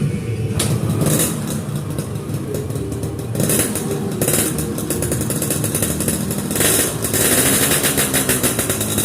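Motorcycle engine running through a BOBAN 39 aftermarket exhaust, a rough rapid exhaust beat with the throttle opened about three seconds in and again near the end, the pitch rising and falling.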